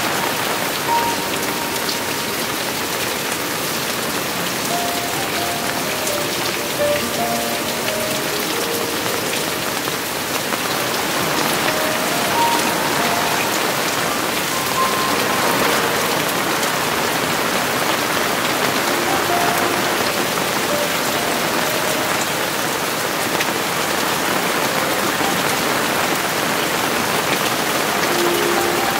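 Heavy rain falling steadily in a dense, even hiss. A faint, slow melody of single notes sounds underneath.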